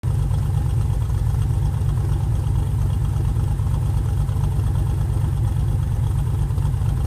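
1946 GMC truck's engine running steadily, a low, even rumble with no revving.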